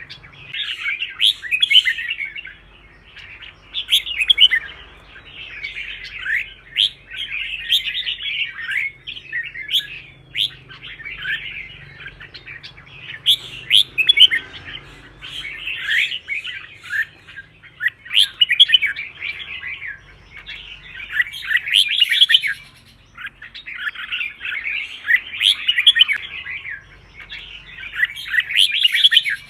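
Red-whiskered bulbul singing: rapid chirping phrases of a second or two each, one after another with short pauses.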